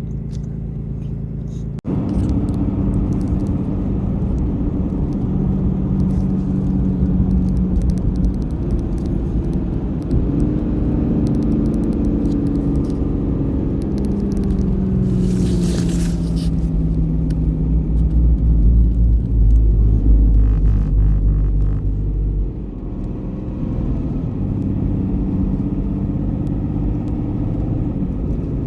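Truck engine pulling away and accelerating, its note rising and falling several times. A brief hiss comes about halfway through, and a heavy low rumble builds in the second half, then eases off.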